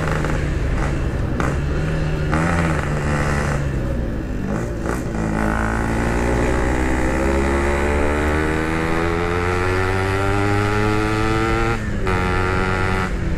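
Yamaha RX-King two-stroke single running under way through its Packing Power aftermarket exhaust. The engine note is uneven for the first few seconds, then climbs steadily in pitch for about seven seconds as the bike accelerates in one gear, and drops sharply about twelve seconds in.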